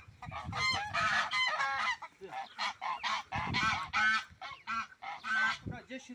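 Farmyard poultry calling over and over: many short calls in quick succession with only brief gaps between them.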